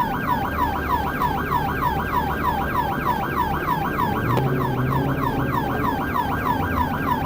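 Police car siren on a fast yelp, sweeping up and down about four times a second, over steady road and engine noise; it cuts off near the end.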